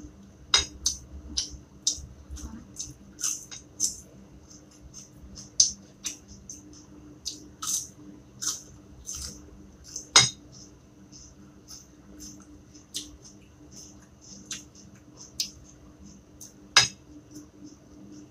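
Eating by hand from a ceramic bowl: irregular sharp clicks and light taps as fingers and food meet the bowl, with a few louder knocks, the loudest about ten seconds in and again near the end.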